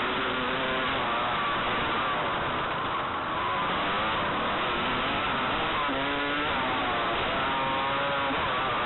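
Motocross dirt bike engine revving up and down on the track, its pitch rising and falling with the throttle over a steady rush of noise, with a brief let-off about three seconds in.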